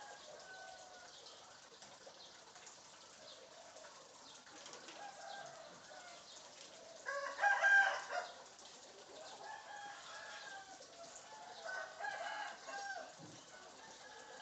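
Bird calls over a low background, with the loudest call, crowing like a rooster, about seven seconds in and another shorter call around twelve seconds in.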